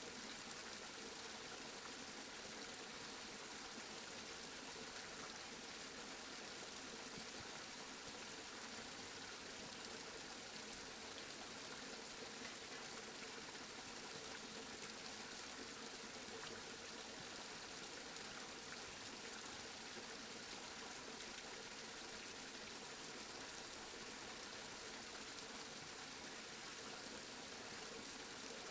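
Steady rain falling: an even hiss of water that doesn't change, with no thunder.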